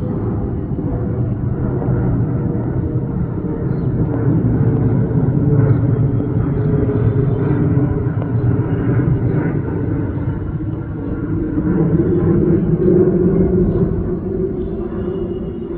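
Airliner's jet engines giving a steady low rumble that swells twice and eases off.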